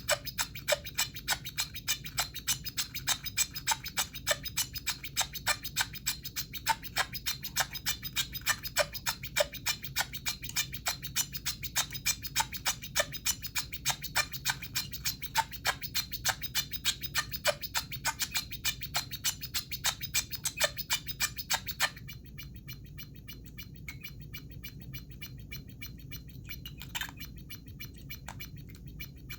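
Circuit-bent talking toy's sound chip glitching: a fast, stuttering run of buzzy clicks from its speaker, several a second, that cuts off suddenly about 22 seconds in. After that only a faint hum and a couple of isolated clicks remain.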